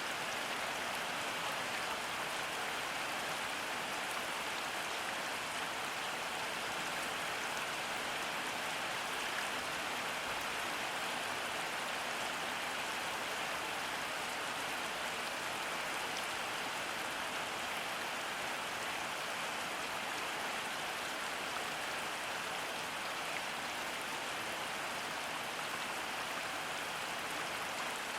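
Steady rain falling, an even hiss of drops on surfaces with no let-up or change.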